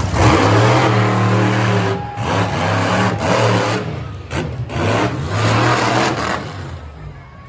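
Monster truck engine revving hard in three or four loud surges with brief dips between them as the throttle comes on and off, dying away near the end.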